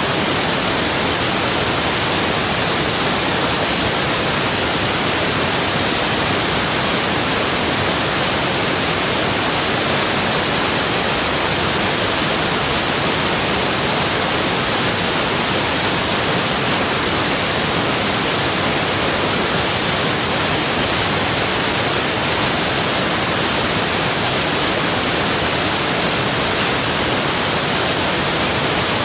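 Rushing water: a steady, even hiss of flowing water with no change throughout.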